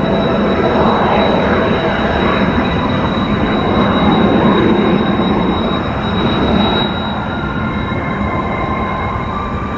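F-35A fighter's jet engine running with a loud, steady roar and a high, steady whine, swelling a little in the first half and easing off after about seven seconds.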